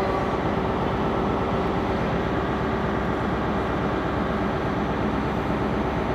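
A train running steadily with a continuous low rumble and a steady hum.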